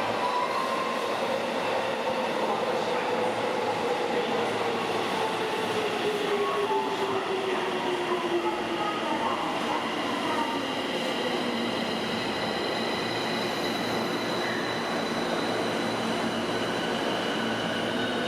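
Electric subway train running with a motor whine that falls steadily in pitch over several seconds as it slows, over steady rolling noise.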